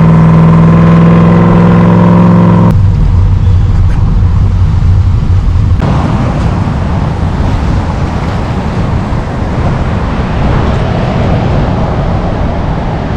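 Car running: a steady hum for the first few seconds, then a sudden change to a low rumble of engine and road noise that grows hissier about halfway through.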